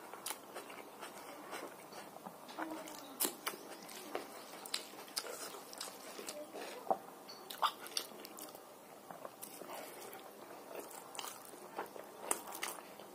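A person chewing handfuls of rice and fried greens eaten by hand, with irregular sharp mouth clicks and smacks.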